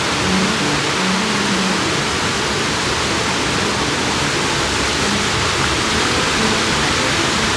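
Rushing river water, a loud steady hiss, with soft background music underneath.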